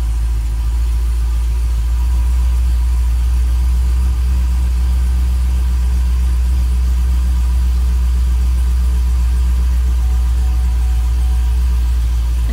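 Supercharged LSA V8 in a Chevy SS idling steadily just after a start, heard from inside the cabin as a deep, even rumble.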